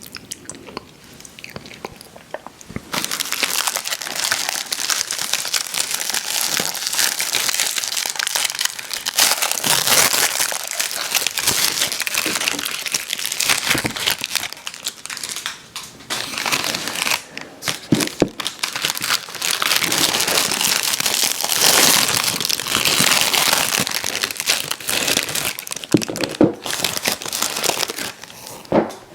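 Candy wrappers crinkling and crackling close to the microphone. The sound is quiet at first and turns loud and dense about three seconds in.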